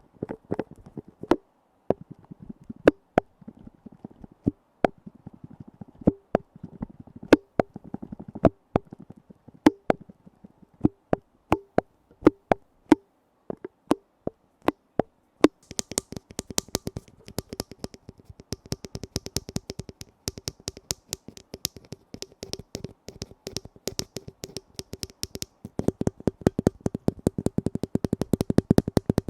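Lids being tapped: sharp separate taps at first, turning into quicker, denser tapping from about halfway and a rapid flurry near the end.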